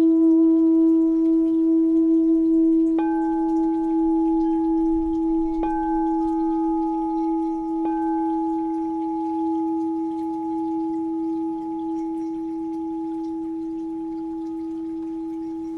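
Crystal Alchemy singing bowl tuned to E at 432 Hz, ringing with a steady deep tone and fainter higher overtones. It is struck lightly three times, about 3, 6 and 8 seconds in, each strike bringing out higher ringing tones. The sound slowly fades.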